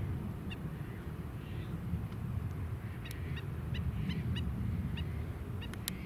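A bird calling in a run of short, sharp notes, one early and then about a dozen in the last three seconds, over a steady low rumble.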